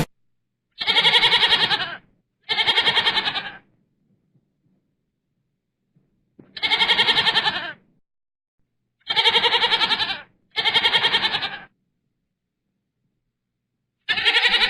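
Goat bleating in six separate calls, each a little over a second long and wavering rapidly, with short silences between; the last call starts near the end.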